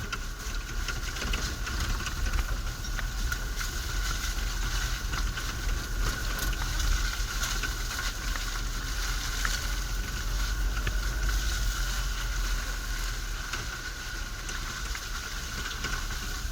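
UAZ off-road vehicle driving on a rough mountain dirt road, heard from on board: a steady, unbroken engine and road noise with a deep rumble.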